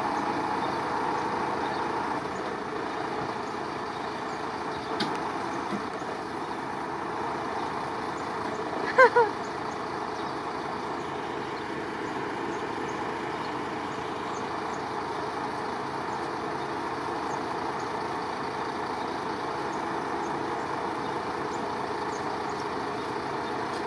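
Truck engine running steadily while powering the crane that lifts an old tractor off the load. About nine seconds in, a brief louder sound with a wavering pitch cuts through.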